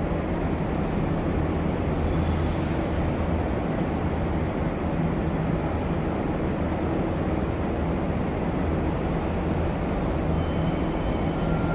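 Alexander Dennis Enviro500 MMC double-decker bus's diesel engine running with a steady low drone, heard with the road and body noise of the bus. A faint high whine comes in near the end.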